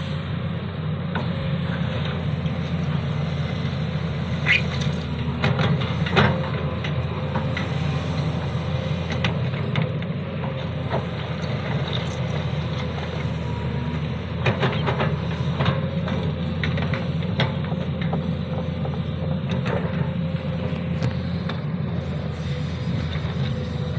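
Sany SY215C hydraulic excavator running steadily while it works, with a steady whine over the engine and scattered sharp knocks and clanks, a cluster about four to six seconds in and another around fifteen seconds.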